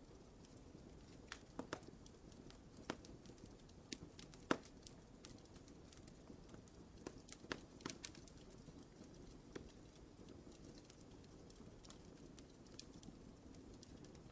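Wood fire crackling in a fireplace: scattered sharp pops and snaps over a soft, low, steady hiss of the burning logs, with the loudest pop about four and a half seconds in and fewer pops in the last few seconds.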